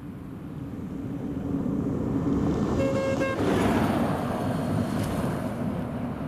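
Engine of heavy farm machinery running steadily and growing louder as it comes close, then easing off. A short horn toot sounds about three seconds in.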